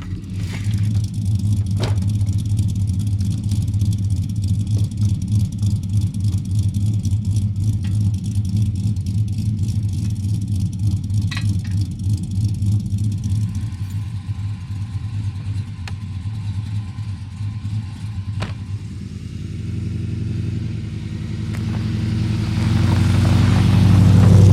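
Chevrolet Silverado pickup's engine running with a steady low rumble, growing louder over the last few seconds.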